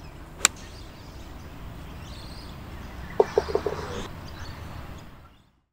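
Birds calling over a steady outdoor background. There is a sharp click shortly after the start, and about three seconds in a quick run of about five short low calls. The sound fades out near the end.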